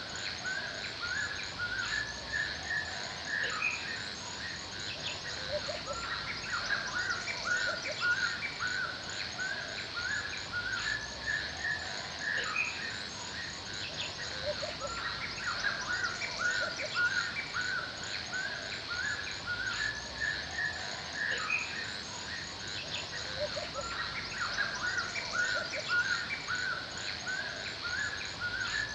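Forest ambience: many songbirds chirping in quick, overlapping, repeated phrases, over a steady high-pitched insect drone.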